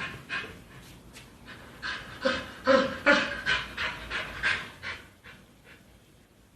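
A dog panting: a quick run of short, breathy puffs, about two to three a second, loudest in the middle and dying away near the end.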